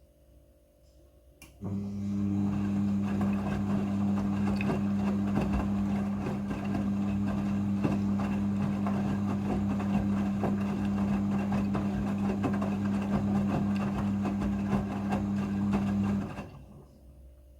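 Midea front-loading washing machine running during its rinse: a steady electric hum with water rushing through it, starting abruptly about two seconds in and cutting off near the end.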